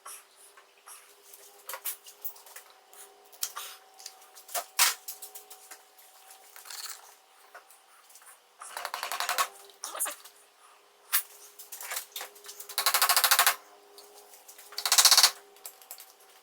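Scattered clicks and knocks of hand work on a motorcycle's throttle cables, broken three times by short bursts of rapid ratcheting clicks, the last two the loudest.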